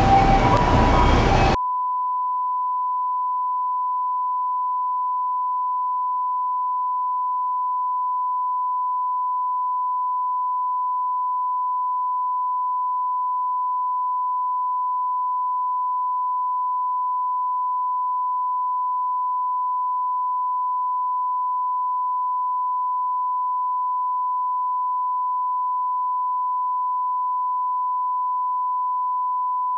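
Bus cabin running noise cuts off suddenly about a second and a half in and is replaced by a steady pure tone at about 1 kHz, a sine test tone that holds unchanged at constant level.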